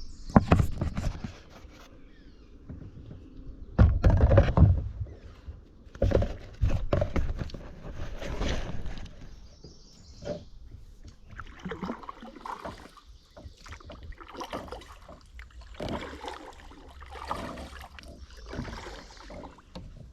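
Kayak paddle strokes in a stream: the blades dipping and splashing again and again at an uneven pace, with water dripping and sloshing between strokes. A heavier low thump-and-splash comes about four seconds in.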